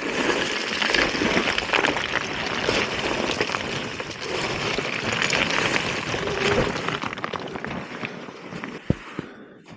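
Mountain bike rolling fast over a loose, rocky trail: a continuous crunching and rattling of tyres on stones and gravel, which drops away sharply a little after nine seconds in.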